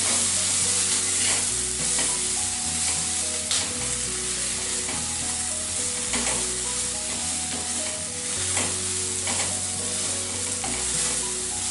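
Chopped onions and green chillies sizzling in oil in a kadai while a spatula stirs and scrapes them, with scraping strokes now and then. This is the onion base of the potato filling for masala dosa, frying.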